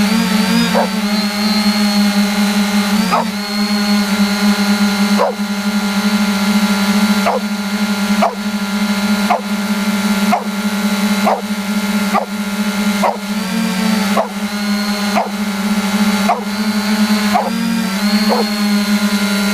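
3DR Iris+ quadcopter's four brushless motors and propellers humming steadily in flight, their pitch wavering as the motor speeds shift near the start and end. A faint regular chirp sounds about once a second.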